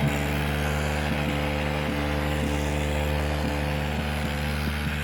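Vehicle engine running at steady revs, its pitch held level, with faint light ticks about twice a second.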